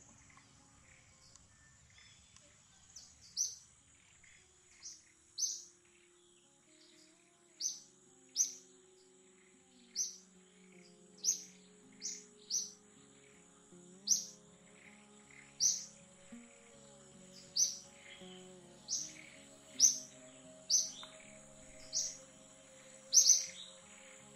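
A bird repeating a short, sharp rising chirp over and over, about once a second, over soft background music that comes in a few seconds in. A steady thin high whine runs underneath.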